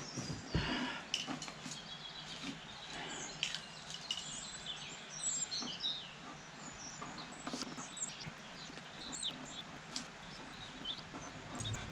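Small birds chirping and twittering, with scattered light clicks.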